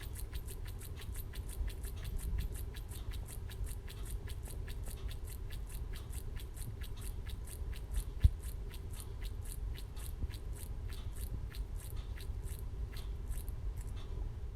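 Home-built Stirling engine made from scrap parts, running with a rapid, even ticking over a low rumble. There is one louder click about eight seconds in.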